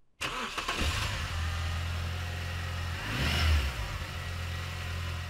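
Car engine idling, revving up briefly about three seconds in and then settling back to idle.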